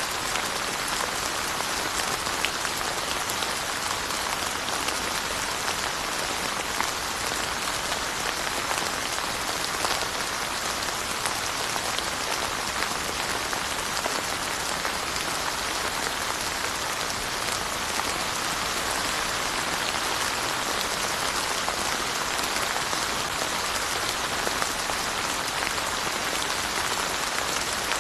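Steady rain falling on surfaces: a dense, even hiss with single drops ticking through it.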